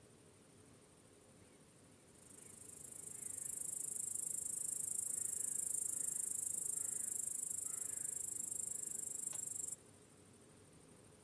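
Crickets chirping in a dense, high-pitched trill that swells in about two seconds in and cuts off abruptly near the end. Faint short chirps sound underneath in the middle.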